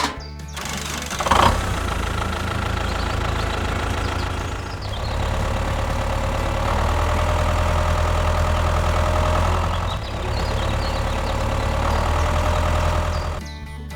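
An engine running steadily, growing a little louder about five seconds in and dipping briefly about ten seconds in, then cutting off shortly before the end.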